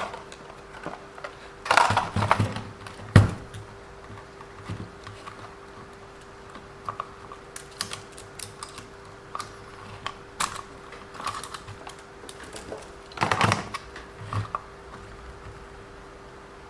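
Small irregular clicks and rattles of plastic and metal parts and tools being handled while a WLToys 144001 RC car is taken apart, with louder bursts of handling about two seconds in and again near thirteen seconds, and a sharp knock at about three seconds. A faint steady hum runs underneath.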